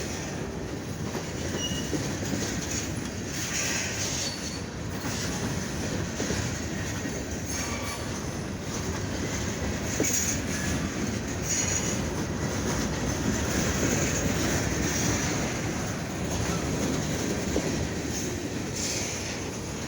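Freight train rolling past: a steady rumble of steel wheels on the rails, with brief high-pitched wheel squeals now and then.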